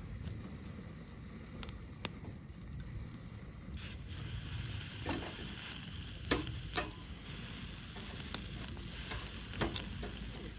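Food sizzling on a hot cooking surface. The sizzle starts suddenly about four seconds in and then carries on steadily, with a few sharp clicks and taps of utensils.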